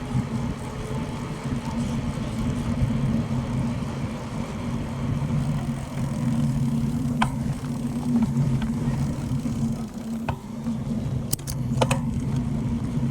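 Steady low rumble of riding noise from a moving bicycle, with a few sharp clicks or knocks about seven, ten and twelve seconds in.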